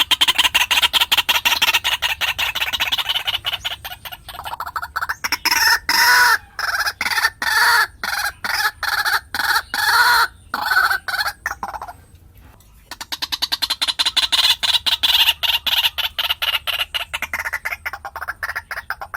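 White-breasted waterhen calling in long series of repeated notes. The notes come rapidly at first, turn slower, louder and more spaced about five to eleven seconds in, stop briefly at around twelve seconds, then start again rapidly.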